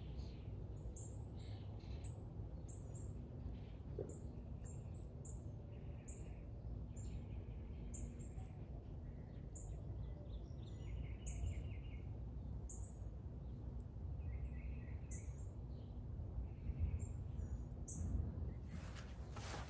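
Small birds chirping: short, high notes repeated every half second to a second, over a steady low background rumble. A brief rustling noise comes near the end.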